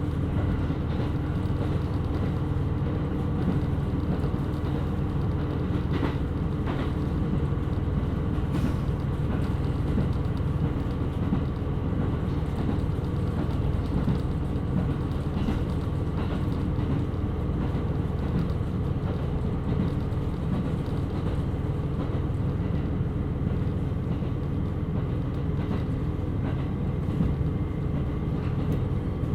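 KiHa 127 series diesel railcar running: a steady low engine and rolling drone with a few faint clicks from the track about six to nine seconds in.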